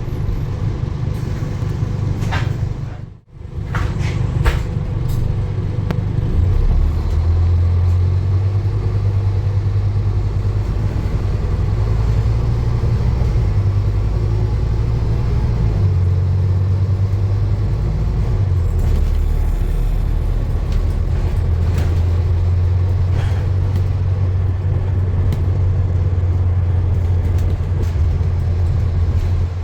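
Steady low rumble of a running motor vehicle, broken by a sudden brief drop-out about three seconds in.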